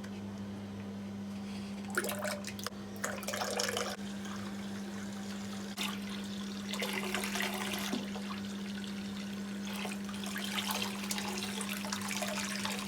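Running water and splashing as a toy horse is washed under a tap, coming in irregular louder spells, over a steady low hum.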